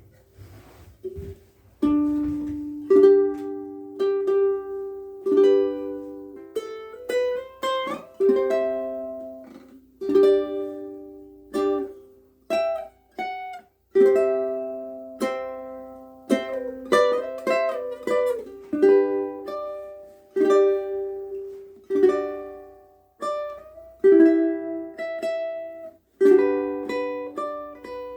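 KoAloha ukulele being played: a melody of single plucked notes and chords, each ringing and fading, with a couple of brief pauses partway through.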